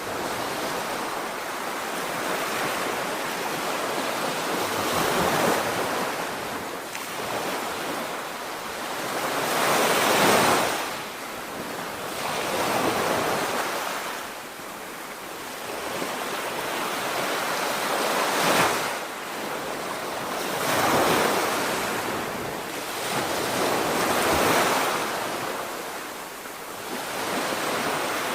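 Sea waves breaking on a beach, the surf swelling and falling away every few seconds, with wind blowing across the microphone.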